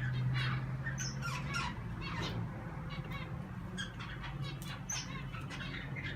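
Mixed pet cage birds (budgies, zebra finches, a canary and a cockatiel) chirping and squawking in quick, overlapping calls, over a steady low hum.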